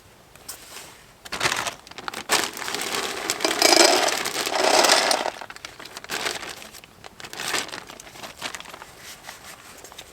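Crinkling and rustling handling noise in uneven bursts, loudest for about three seconds in the middle.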